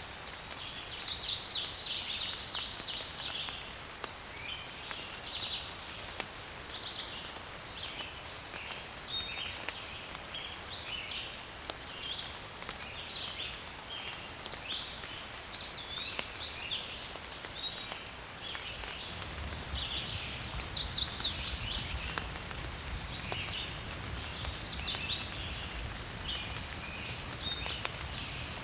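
Woodland birdsong: several birds chirping and calling, with a loud rapid trilled phrase twice, just after the start and again about two-thirds through.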